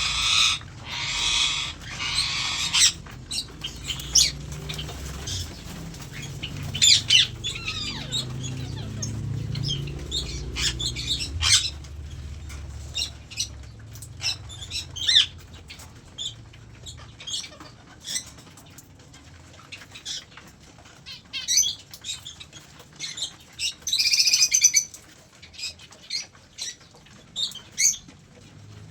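Aviary birds flapping their wings in short flurries, with scattered brief calls. The flapping is densest in the first few seconds and again in a burst late on.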